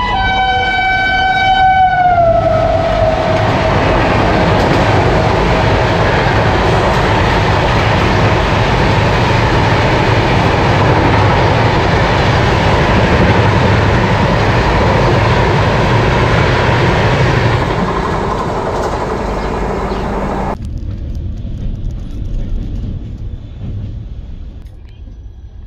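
Train horn sounding loudly, its pitch dropping as it goes past, followed by the loud, steady rush of a train running past at speed. The sound cuts off suddenly about twenty seconds in, leaving a quieter background.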